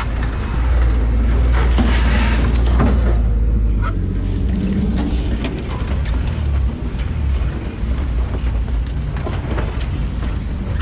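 Off-road rock-crawling rig's engine running at low speed on the trail, pulling harder for the first few seconds and then easing off, with scattered knocks and clatter from the rig.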